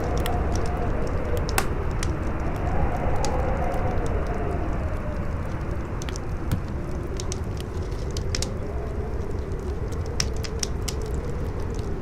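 Campfire crackling with frequent sharp pops over a steady rumble of strong wind, whose howl rises and falls in pitch.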